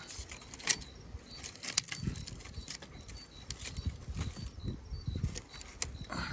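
Scattered sharp cracks and small knocks from dry sticks and twigs at a bonfire being built, over low uneven rumbling.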